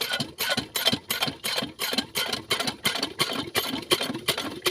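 Diesel engine driving a well water pump, running steadily with a rapid, even knocking of about five beats a second.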